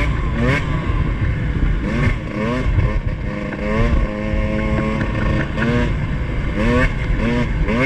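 Two-stroke dirt bike engine on a trail ride, revving in repeated short throttle blips that rise and fall in pitch, with a steadier held note for about a second and a half around the middle.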